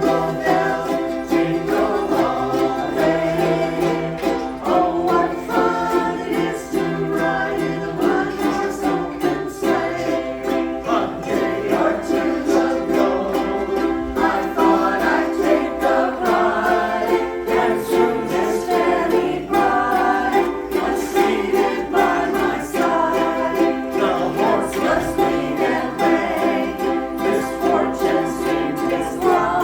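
A group of ukuleles strumming chords together, with a group of voices singing along.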